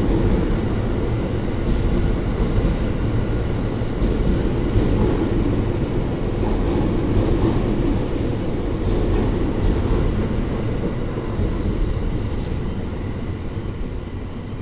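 Train running at the platform: a steady rumble and rail noise that slowly fades over the last few seconds.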